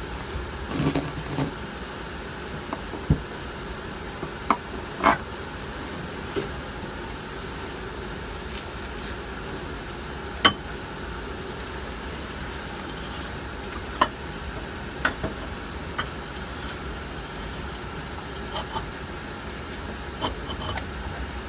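Scattered sharp metallic clinks and knocks, with some rubbing, as a new air spring and tools are worked up into a bus's front suspension mount. A steady low hum runs underneath.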